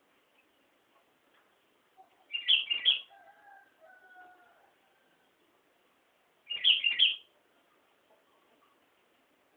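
Sooty-headed bulbul (kutilang) singing two short, loud, bubbly phrases about four seconds apart. Fainter, lower whistled notes follow the first phrase.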